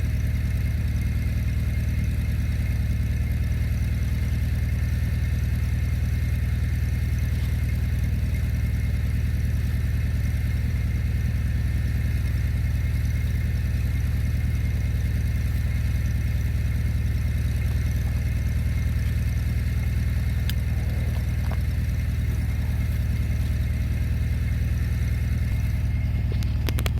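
Gasoline tractor engine running steadily with a low, even sound and no change in speed.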